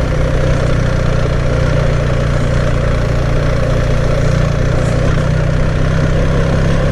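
BMW R 1300 GS boxer-twin motorcycle engine running steadily at an even engine speed, picked up by the rider's onboard microphone.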